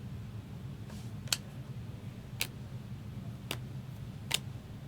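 Trading cards handled one by one on a table: four sharp light clicks about a second apart, over a low steady hum.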